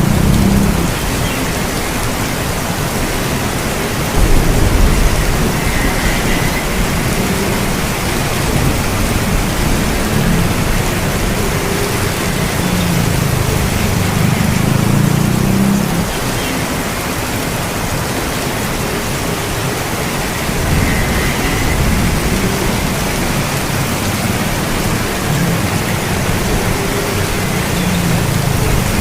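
Steady rain falling as an even hiss, with a low rumble of distant thunder that swells and fades several times.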